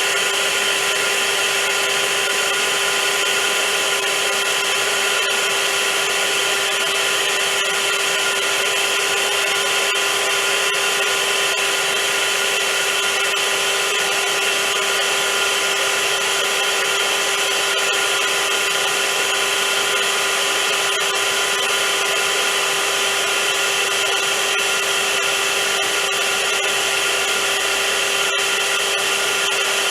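Vacuum cleaner motor running steadily, a loud, unchanging rushing hiss with a steady hum and a high whine.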